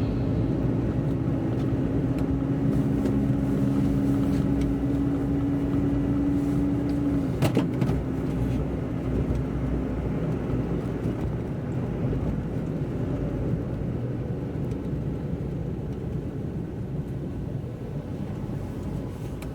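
A car driving on a wet road, heard from inside: a steady low rumble of road and engine noise. A steady hum runs under it and stops about seven seconds in, just before a single sharp click. The noise then slowly dies down as the car eases off.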